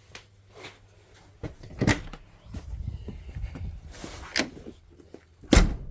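Knocks and clunks of someone moving about indoors: a knock about two seconds in, a scraping rustle a little past four seconds, and a heavy thump near the end, the loudest of them.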